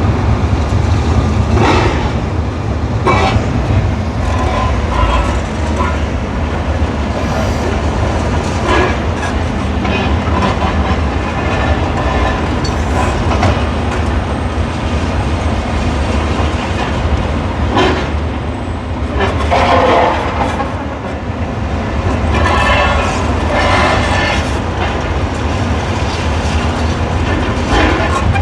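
Demolition machinery working on a building: a steady deep rumble with repeated crunches and clatters of breaking and falling rubble, a busier spell of them about two-thirds of the way in.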